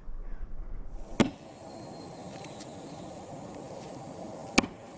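Two sharp clicks, about 1.2 s and 4.6 s in, over a steady faint outdoor hiss; a low rumble fills the first second and stops at the first click.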